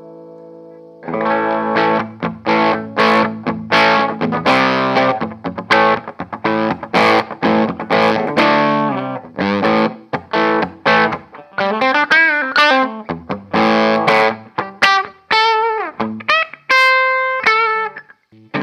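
1997 Korean-made Epiphone Les Paul Custom electric guitar played with distortion: a held chord fades, then about a second in a run of short, choppy chords begins, moving into single-note lead lines with string bends and a held, vibrato note near the end.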